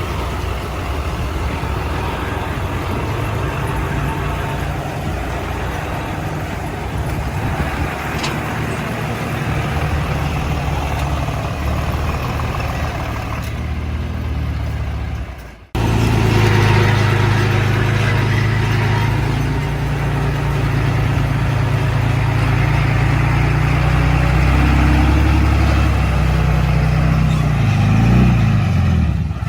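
Heavy diesel earthmoving machinery running steadily, a bulldozer and dump truck engine. The sound drops out abruptly about halfway through and comes back louder. Near the end the engine pitch rises and falls.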